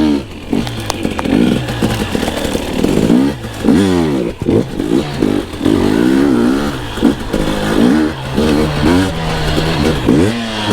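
Two-stroke enduro dirt bike engine being ridden, its revs rising and falling over and over with the throttle and gear changes.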